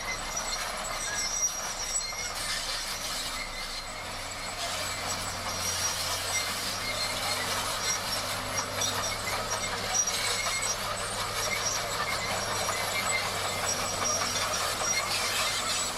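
Crawler bulldozer working: the engine hums steadily under a continuous clatter of steel tracks with thin high metallic squeals.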